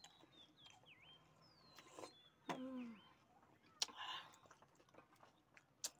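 Faint chirping of small birds, short down-sweeping notes repeated over and over, with a few sharp clicks and crunches of people eating crisp panipuri and a brief hum of a voice about halfway through.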